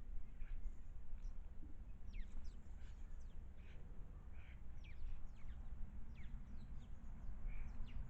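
Garden birds chirping: many short, quick downward-sliding calls in irregular succession, over a steady low rumble of background noise.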